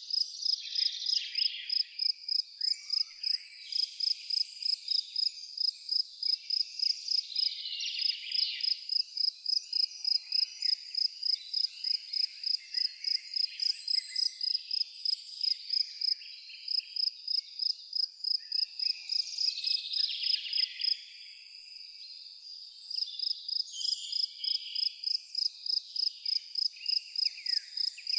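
An insect, cricket-like, chirping in a steady high-pitched pulse of about three to four chirps a second, falling silent for about two seconds two-thirds of the way through, while birds call and trill.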